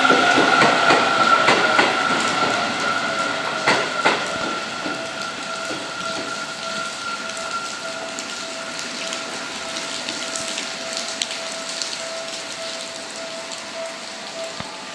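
Electric commuter train on the rails at a station. A nearby train moves off and fades, its wheels clicking over rail joints a few times in the first four seconds. A steady tone then holds while a Seibu 30000-series train runs slowly in to stop.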